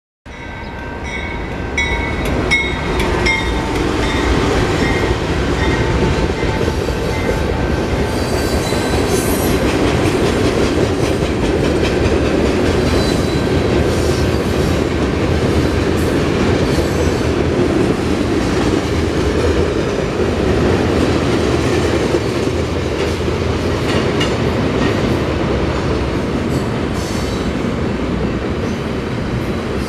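BNSF mixed freight train's cars rolling past at close range: a steady rumble of steel wheels on rail with scattered clicks from the rail joints. Thin high wheel squeal sounds through the first several seconds.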